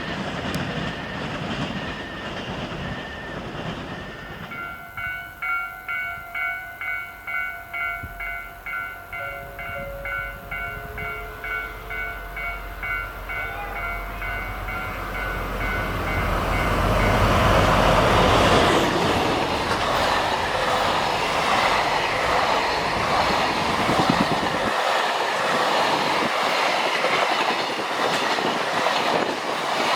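Freight train on the line: a level crossing bell rings in quick pulses, about two a second, over a deep rumble, then the train goes by, its wheels clattering over the rail joints, loudest about 18 seconds in.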